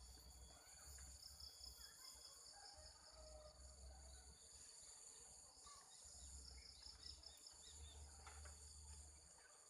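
Faint rural ambience: insects chirring steadily at a high pitch, with scattered short bird calls and a low hum that comes and goes.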